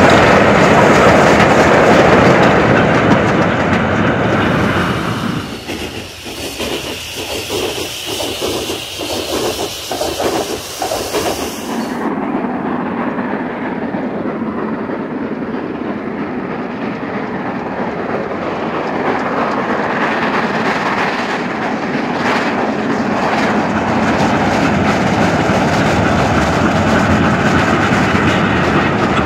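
Archive recording of a steam-hauled goods train running past: a continuous rumble and clatter of wheels on rail joints. Midway it drops back to a run of regular beats, a little over one a second, then builds again as the wagons pass close.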